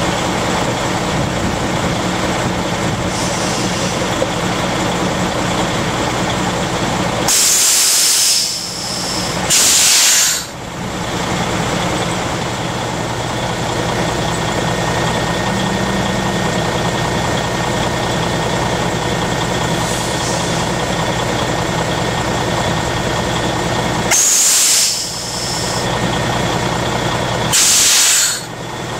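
Diesel engine of a 2005 Freightliner M2 truck idling steadily, broken by four loud, short releases of compressed air from the air brake system. The releases come in two pairs a few seconds apart: one pair about a quarter of the way in and the other near the end.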